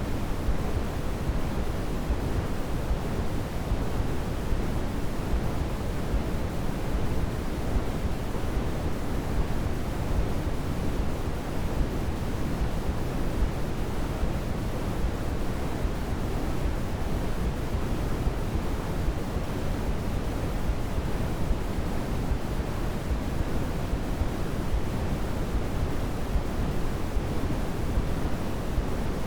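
Steady, unchanging sleep noise for babies, a soft rushing hiss that is heavier in the low end than in the highs, with no swells, breaks or other sounds.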